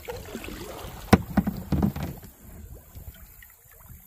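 Canoe being paddled, with a sharp knock on the boat about a second in followed by a few lighter knocks, then quieter water noise.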